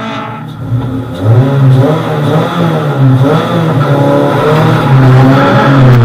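Toyota Celica race car's engine revved hard, the pitch rising and falling repeatedly, as it launches from the start line and accelerates away.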